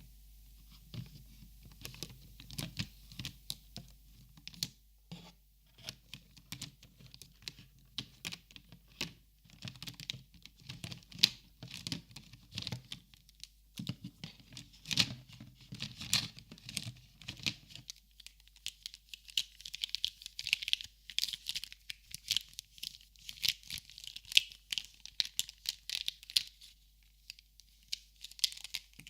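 Copic markers and crinkly packaging handled close to the microphone: a quick, irregular run of light clicks, taps and crinkles. A low handling rumble lies under the first half and stops about two-thirds of the way in, leaving brighter crinkling.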